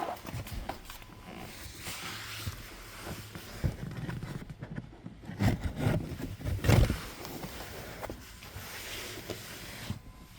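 Scraping, clicks and knocks of hands and plastic as a car's cabin air filter is taken out of its housing, with a few louder knocks around the middle.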